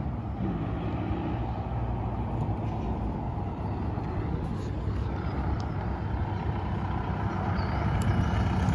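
A car engine running steadily, growing louder near the end as a car approaches along the road.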